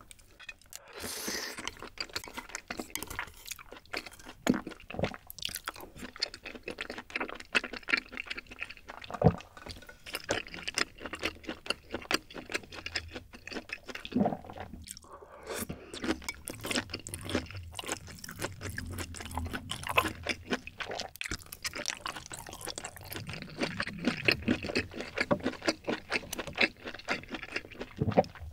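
Close-miked chewing of chewy rice cakes in creamy rosé tteokbokki sauce: many small wet mouth clicks and smacks.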